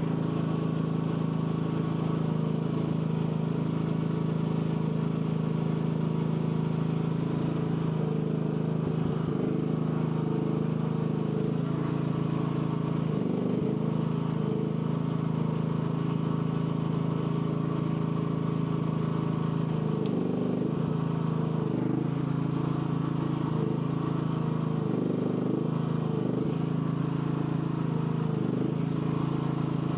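AGT L12 mini excavator's engine running steadily, its pitch sagging briefly several times as the hydraulics are worked.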